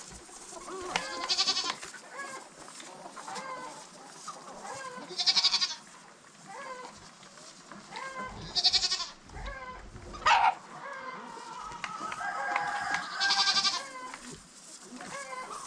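Farm animals calling: hens clucking throughout, broken by four loud, short, pulsing calls about four seconds apart and one falling call just after the middle.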